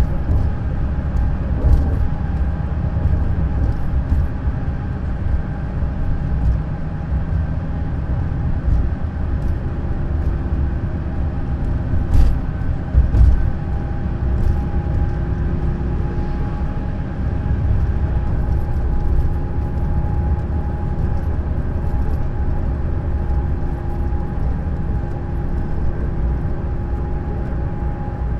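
Neoplan Skyliner N 1122/3C double-deck coach driving steadily: a deep road and engine rumble with a steady drivetrain whine held at a few fixed pitches. A couple of brief knocks or rattles come a little under halfway through.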